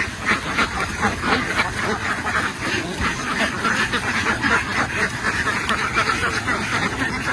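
A large flock of domestic ducks quacking together, many overlapping calls in a continuous, steady din.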